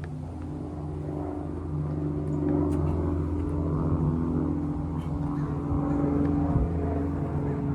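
A vehicle engine running steadily, getting a little louder about two seconds in.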